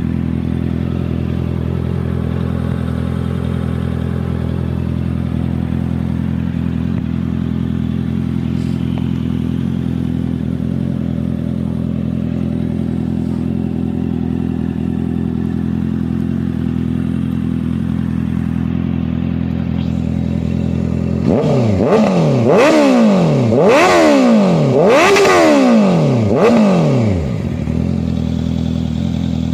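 Honda CBR650F inline-four with an SC Project exhaust idling steadily, then given a series of quick throttle blips about two-thirds of the way in, each rev rising and falling in pitch and louder than the idle, before settling back to idle.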